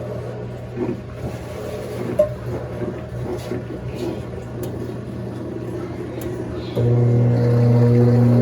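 Mondial Baby BLK20 compact washing machine running with a low hum; about seven seconds in its motor switches on and the hum jumps to a much louder, steady drone.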